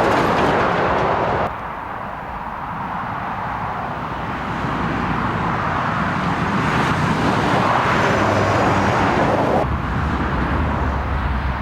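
Lorries passing on a motorway: tyre roar and diesel engine noise swelling and fading as trucks go by. The sound changes abruptly about a second and a half in and again near the end.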